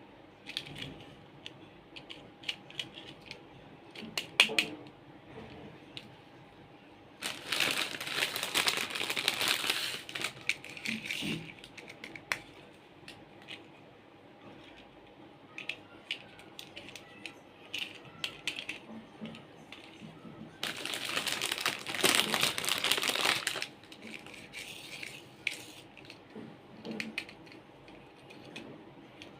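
Plastic toys being handled close up: scattered small clicks and rattles, with two louder stretches of rough scraping or rustling noise, each lasting about three seconds.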